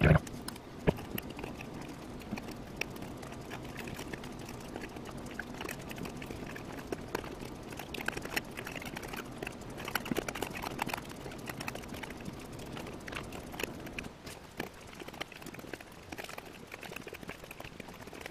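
Small handling noises of thin copper magnet wire being wound by hand through the slots of a spider-web coil form: scattered light ticks and rustles, with two sharper clicks in the first second, over a faint steady hum.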